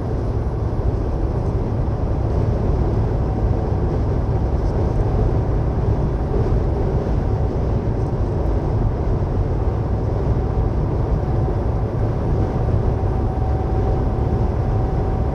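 Steady low rumble of a semi-truck's engine and tyres heard from inside the cab while it drives down the highway in strong wind. A faint steady tone joins it a few seconds in.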